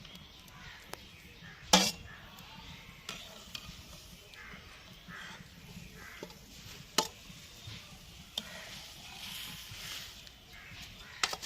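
Cooking utensils clinking and knocking against pots and pans as the cook works. There are a few sharp clinks: the loudest about two seconds in, another about seven seconds in, and two close together near the end.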